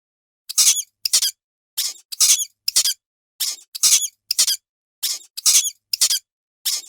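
An animal's short, very high-pitched squeaks, about a dozen of them in an irregular run, some in quick pairs.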